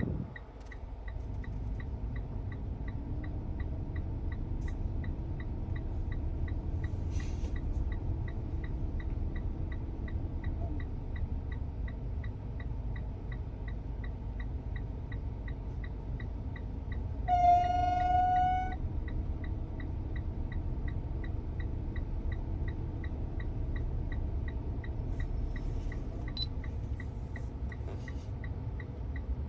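A car's AC system running, heard as a steady low rumble with a faint droning hum that comes and goes and a light even ticking about three times a second: the noise the title puts down to a failing AC expansion valve. About halfway through, a loud horn-like tone sounds for about a second.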